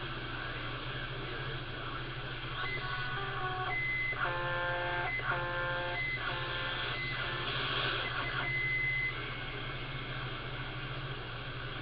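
CB radio speaker giving a steady electrical hum, with short high beeps and a string of held electronic tones about four to eight seconds in.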